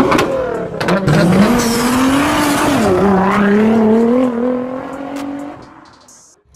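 Car engine revving hard at high revs, its pitch climbing, dipping briefly about three seconds in, then climbing again before fading out near the end.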